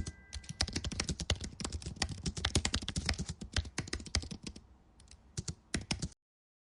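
Computer keyboard typing: a rapid run of key clicks that thins out and stops abruptly about six seconds in.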